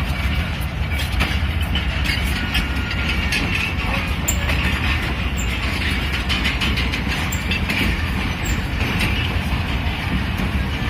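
Moving train running on the rails: a steady low rumble with scattered sharp clicks of the wheels on the track.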